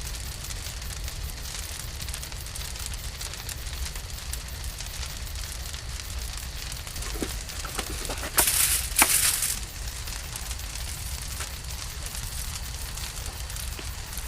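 Campfire crackling, with scattered small pops. About eight seconds in comes a louder burst of hissing and sharp pops lasting a second or so.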